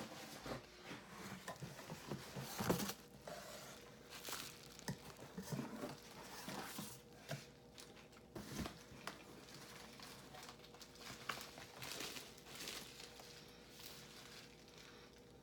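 Packing material rustling and crinkling in irregular handfuls, with small taps and clicks, as a shipped box is unpacked by hand.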